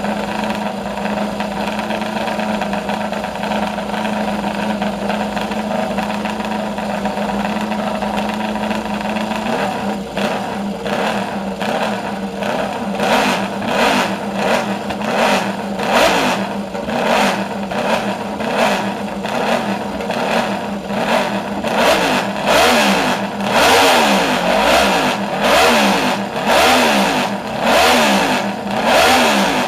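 2014 PBM Aprilia MotoGP race bike's V4 engine being warmed up. It idles steadily for about ten seconds, then is blipped over and over, each rev rising and falling in pitch, the blips coming faster and louder towards the end.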